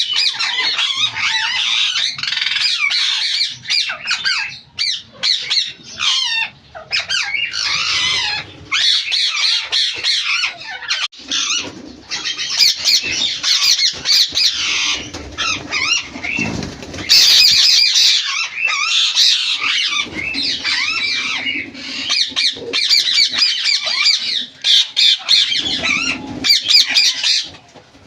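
A flock of ringneck parakeets screeching and chattering almost without pause, many harsh calls overlapping, with a few brief lulls.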